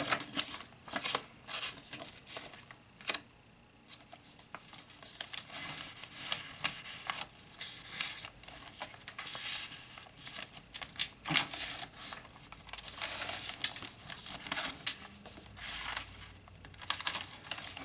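Paper pages of a handmade junk journal being turned and handled: irregular rustling and crinkling of paper, with a few sharper snaps.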